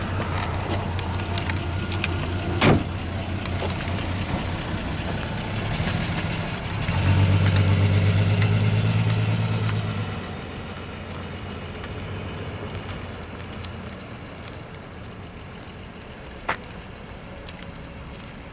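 1962 Dodge Dart's slant-six engine idling, with a car door slammed shut about three seconds in. The engine then pulls away under throttle, loudest for about three seconds, and fades as the car drives off. A single sharp click comes near the end.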